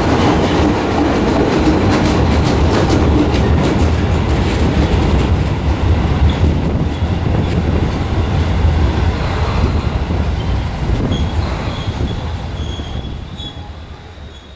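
JR West 221 series electric train running past and into a tunnel, a loud, steady rumble of wheels on rail with scattered clicks. The noise fades away over the last few seconds as the last car disappears into the tunnel.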